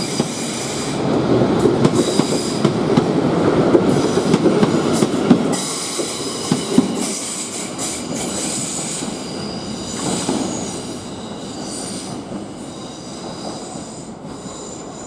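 South Western Railway Class 450 Desiro electric multiple unit pulling out and running past: a rumble of wheels on rail with a quick run of clicks over the rail joints and a high steady whine. The sound is loudest in the first few seconds and fades steadily as the train draws away.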